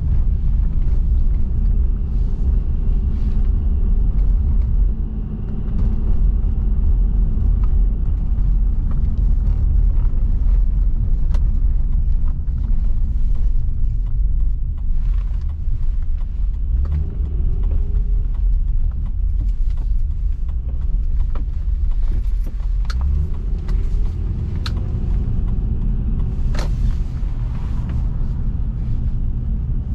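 Road noise inside a moving car: a steady low rumble of tyres and engine, with scattered small clicks and rattles and a faint rising and falling engine tone twice.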